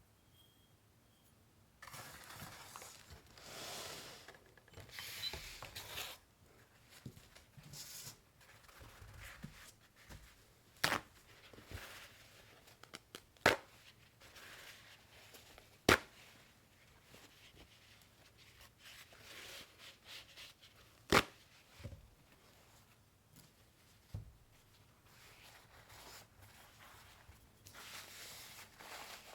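Packing an order by hand: rustling and tearing of packaging material in spells, broken by four sharp, loud clicks.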